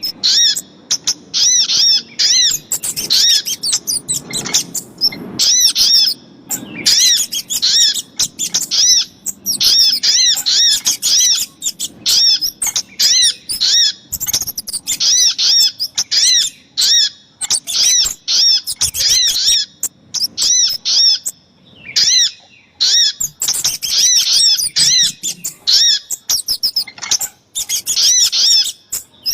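Bird-lure recording of sogok ontong and kemade calls: fast runs of short, sharp chirps repeated over and over, broken by brief pauses.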